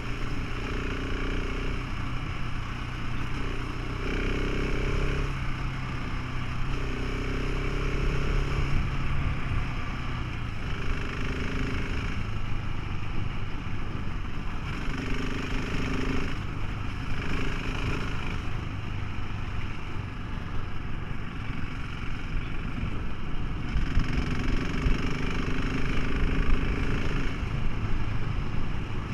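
Motorcycle engine running steadily under way, its pitch stepping down about ten seconds in, over a steady rush of noise.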